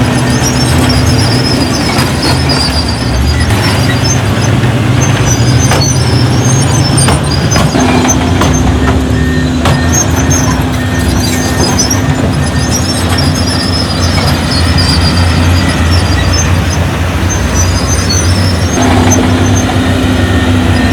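Heavy diesel engine of earthmoving machinery running under load, its pitch shifting several times, with scattered metallic clanks and knocks.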